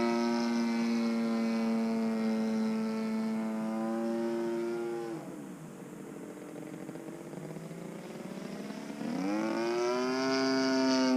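DLE 35RA single-cylinder two-stroke gas engine on an RC aerobatic plane, its top end freshly rebuilt and being broken in. It runs steadily at a high pitch, is throttled back about five seconds in so the pitch drops and it goes quiet, then is throttled up again about nine seconds in with a rising whine.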